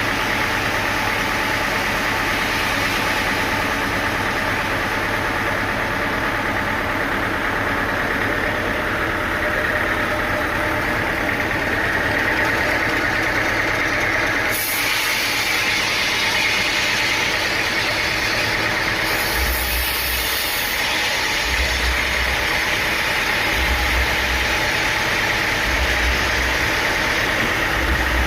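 Sawmill machinery running steadily with an engine hum. About halfway through the sound changes abruptly, and in the last third a low pulse repeats about every two seconds.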